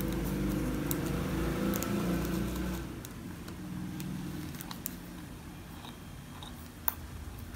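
Biting into and chewing a crisp Shiroi Koibito langue de chat biscuit with white chocolate, with faint crunches and a few sharp clicks. A low steady hum runs under the first three seconds and then fades.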